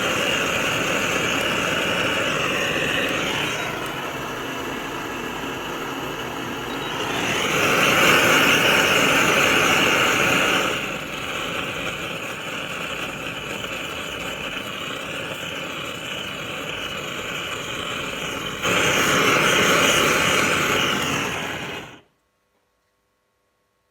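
A loud motor-driven machine running steadily. Its level steps up and down several times as if under changing load, and it cuts off suddenly near the end.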